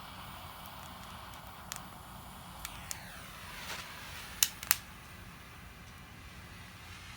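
A few sharp clicks and pops over a steady hiss, the loudest two in quick succession a little past the middle.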